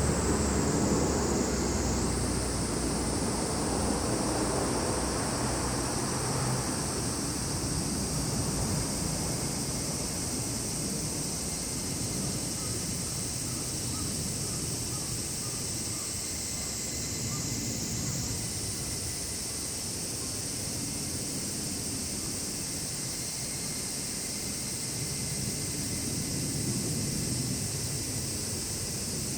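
Cicadas singing in a steady high, continuous chorus that sags a little and snaps back up twice. Under it is a low rumble, strongest at the start and swelling again near the end.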